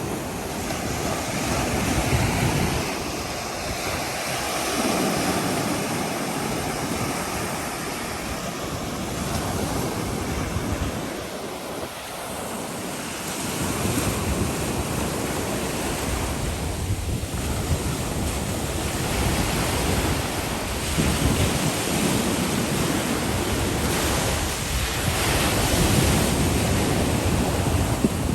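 Gulf of Mexico surf washing onto the beach in steady swells, with wind buffeting the microphone.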